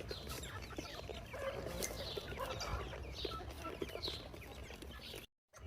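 Chickens clucking, with short scattered calls and ticks. The sound cuts off suddenly near the end.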